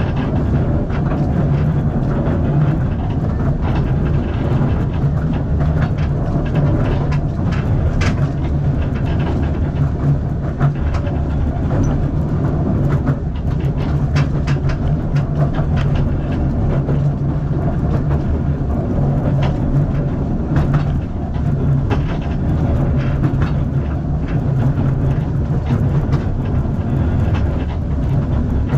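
A narrow-gauge steam train's carriage running along the track: a steady low rumble from the wheels, with frequent scattered clicks and rattles.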